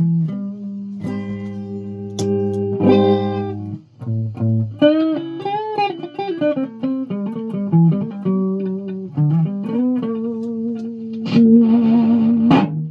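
Guitar played through effects, its notes bending and sliding in pitch over a held low note, with a louder, noisier passage near the end.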